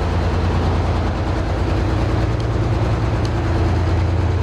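Heavy diesel engine idling: a steady low drone that does not change.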